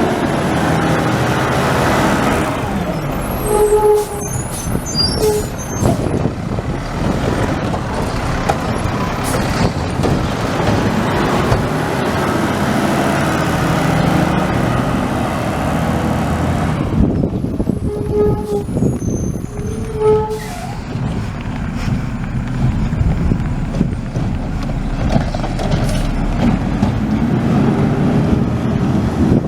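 Garbage truck's diesel engine running steadily, with a few short beeps about four, eighteen and twenty seconds in, and bursts of air hiss.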